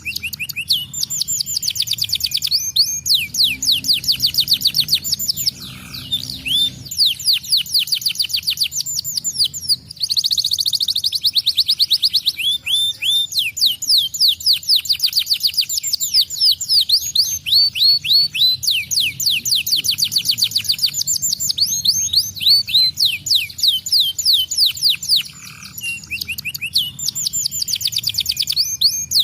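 Domestic canary singing long, fast trills of quickly repeated high, down-sweeping notes, in phrases separated by short pauses.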